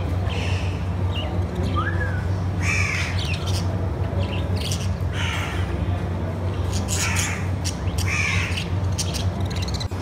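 Birds squawking with harsh, crow-like calls every second or two, with one short whistled note about two seconds in, over a steady low hum.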